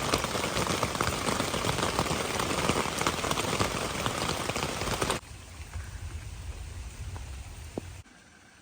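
Heavy rain falling, dense with individual drop hits. About five seconds in it cuts abruptly to a quieter, lower rain sound, which drops away to faint near the end.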